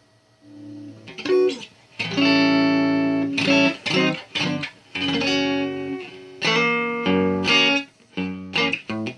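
Telecaster-style electric guitar played through a solid-state amp: stop-start strummed chords and short riffs, each cut off before the next. The playing starts softly about a second in.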